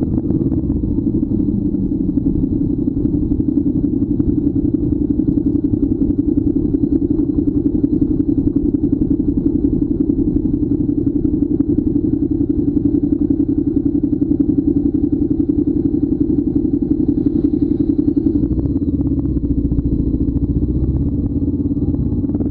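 Motorcycle engine running steadily under way, a dense pulsing drone with a brief change in its low end about three-quarters of the way through.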